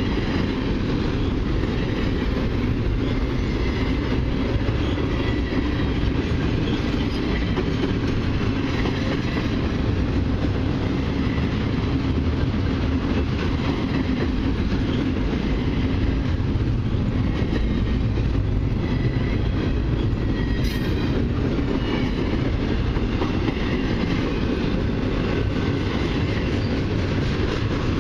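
Double-stack intermodal well cars rolling past at close range: the loud, steady running noise of steel wheels on the rails.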